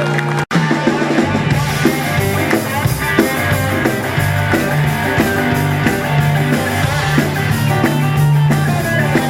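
Live rock and roll band playing at a quick beat, drum kit and bass driving under the instruments, with a brief cut-out of the sound about half a second in.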